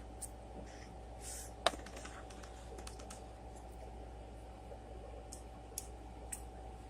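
Eating sounds: scattered small clicks and taps, with one sharper click about a second and a half in and a few lighter ones near the end, over a low steady hum.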